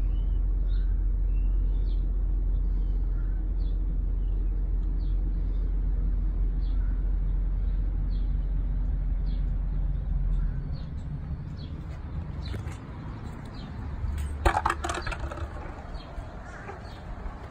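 Low, steady hum of the stretch limousine's engine idling, heard from inside the cabin, dropping away about ten seconds in. Small birds chirp over it in short repeated calls, and a quick cluster of knocks and clatter comes near the end.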